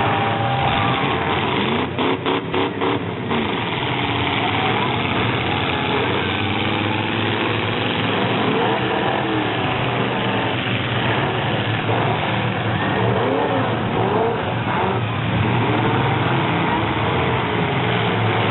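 Full-size truck engines running and revving hard, with voices mixed in. The sound cuts out briefly several times about two to three seconds in.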